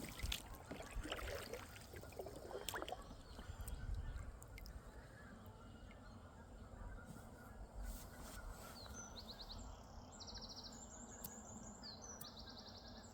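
Wild birds calling: a rapid high trill comes about four times in the second half, over a steady low background hiss.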